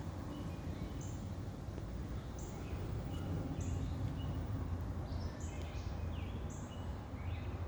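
Birds calling: short high chirps repeated roughly once a second, over a steady low rumble.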